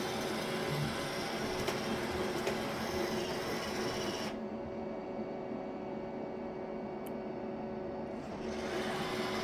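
Roomba robot vacuum running with a steady motor hum and brush noise. From about four seconds in until near the end, its sound goes duller, losing its hiss.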